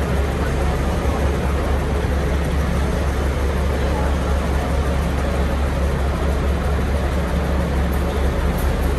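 DR2102 diesel railcar running: a steady low engine drone under a continuous rolling noise.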